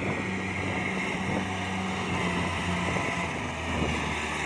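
Kubota DC70 Plus rice combine harvester running steadily while it cuts, with a continuous diesel engine hum and the whir of its machinery. Its engine note drops slightly near the end.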